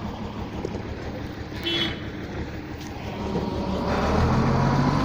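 Lorry engine running, then revving up about three seconds in, its pitch rising and the sound growing louder. A brief high squeak about two seconds in.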